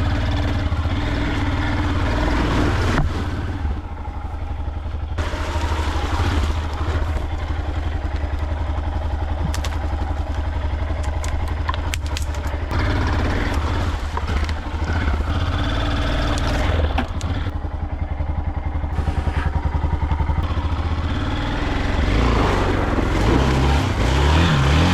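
Dirt bike engine running steadily as the bike is ridden through mud, revving harder near the end.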